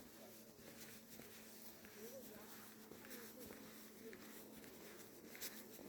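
Near silence: faint background with a steady low hum and a few faint, indistinct sounds.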